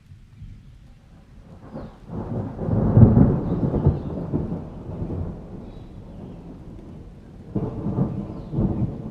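Thunder rolling over steady rain: a deep rumble swells about two seconds in, peaks and fades over the next few seconds, then a second, shorter roll of thunder comes near the end.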